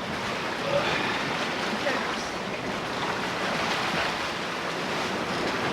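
Steady rush of sea water and wind around a sailboat under way.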